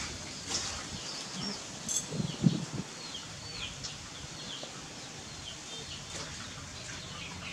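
Small birds chirping in short, hooked calls, scattered throughout. A few brief low knocks come about two and a half seconds in.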